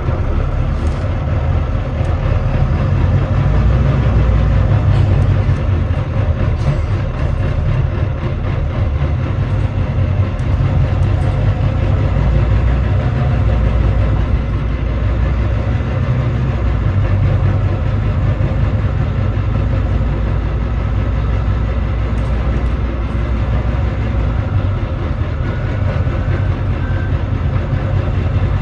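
Volvo D9B 9.3-litre six-cylinder diesel engine of a Volvo B9TL double-decker bus running steadily, heard from inside the bus with a deep drone; the engine is said to be misfiring and thrashy.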